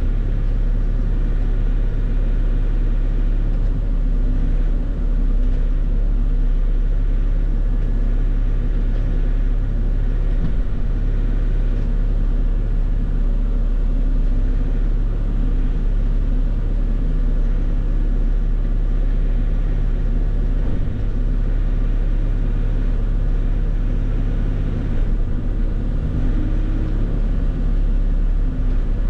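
Bobcat E50 mini excavator's diesel engine running steadily under a constant load, a low, even drone that hardly changes in pitch.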